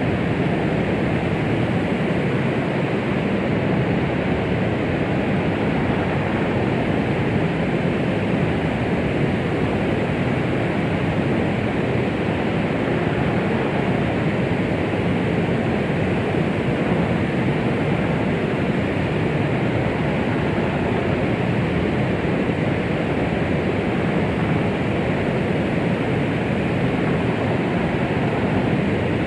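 Steady white noise used as a womb sound to soothe a baby: an even, unchanging hiss, weighted towards the low and middle range, with no beat or breaks.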